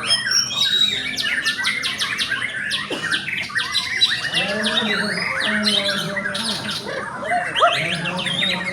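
Several white-rumped shamas (murai batu) singing at once: a dense tangle of fast whistles, trills and sharp clicking notes. A low drawn-out sound comes in underneath about halfway through and again near the end.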